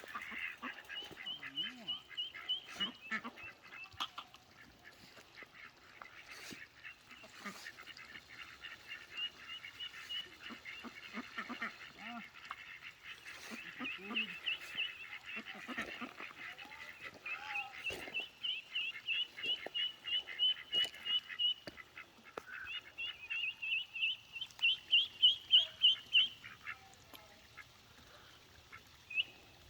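Ducklings peeping: runs of quick, high-pitched peeps repeated again and again, the loudest run coming a few seconds before the end.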